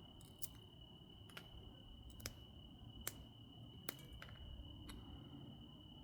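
Faint, sharp clicks, about seven at roughly one a second, from obsidian being knapped, as small flakes snap off the biface. A cricket trills steadily underneath.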